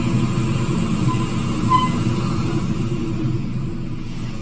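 Running noise inside an electric suburban train carriage: a steady low rumble of wheels and traction motors, easing a little near the end, with a brief faint high note about two seconds in.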